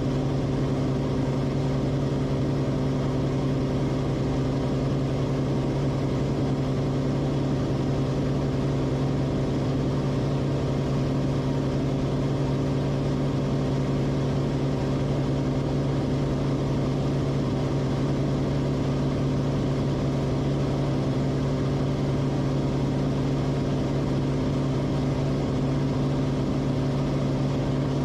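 Cessna Corvalis TTX's turbocharged six-cylinder engine and propeller droning steadily at constant power, with a low, even hum that does not change.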